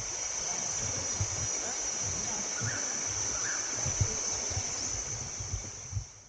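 Insects droning steadily at a high pitch over the rush of running water from a jungle stream, with irregular low thumps on the microphone.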